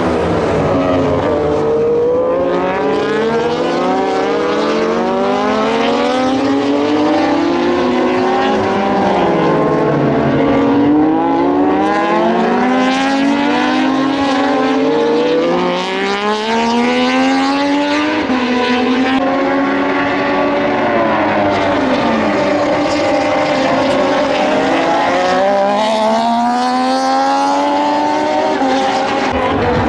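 Several Moto2 race bikes on track, their Triumph 765 cc three-cylinder engines running hard. Their notes repeatedly climb as the bikes rev up and fall away, with several bikes overlapping one after another.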